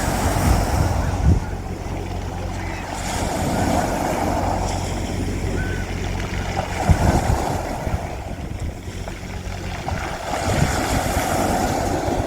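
Sea waves washing onto a beach, the surf swelling three times, over a steady low hum.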